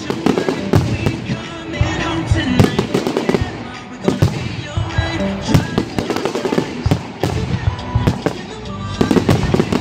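Aerial firework shells bursting in quick succession, many sharp bangs a second, with loud music playing under them.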